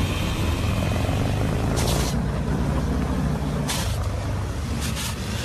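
Motorcycle engine running at steady revs, a low rumble, with three short hissing bursts about two, four and five seconds in.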